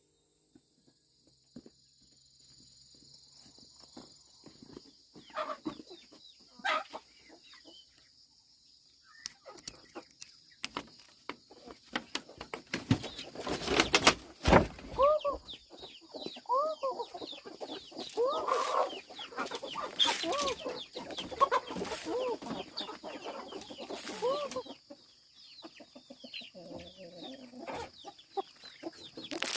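Chickens clucking, a run of short repeated calls in the middle stretch, mixed with scattered knocks and rustling and a steady high-pitched hum.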